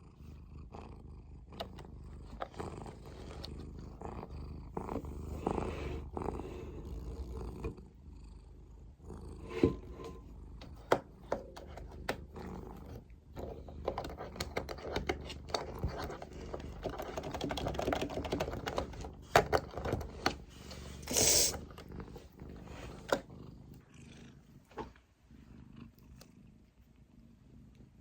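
A Munchkin cat purring close to the microphone, a steady low pulsing rumble, with scattered small clicks and knocks and one brief louder noise about twenty seconds in.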